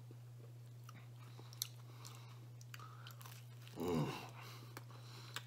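A man chewing pizza crust, with faint scattered mouth clicks over a steady low hum. About four seconds in he gives one short voiced grunt as he bites into a crust dipped in garlic butter sauce.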